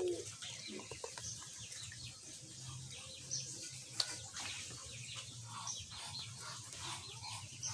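Birds chirping faintly in the background, many short high chirps, with a single sharp click about four seconds in.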